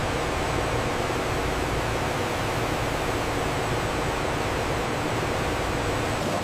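Steady, even rushing hiss from a food-processing line, with a faint high whine.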